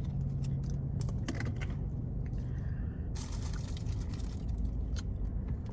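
A plastic food container being handled and its lid opened, with scattered sharp clicks and a short crinkling rustle about three seconds in, over a steady low hum.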